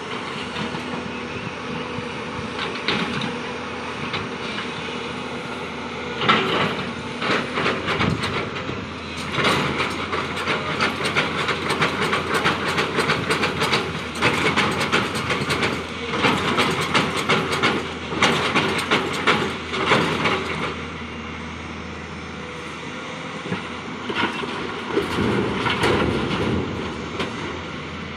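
A diesel engine runs steadily while a JCB loads stone into a truck, the rocks rattling and clattering as they tumble into the truck bed. There is a long spell of clattering from about six seconds in and a shorter one near the end.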